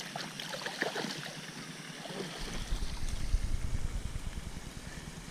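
Water splashing and sloshing as a hooked channel catfish is fought near the bank, with short irregular splashes in the first couple of seconds. Wind starts buffeting the microphone about halfway through.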